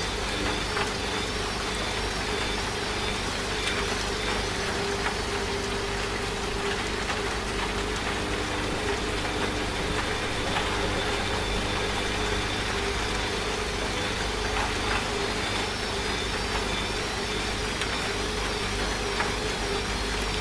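Washing machine running with a steady hum, mixed with the even hiss of rain.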